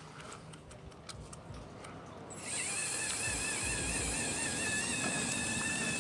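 A few faint clicks, then about two seconds in a small electric motor and pump on the RC excavator start up with a steady whine, its two tones wavering slightly in pitch.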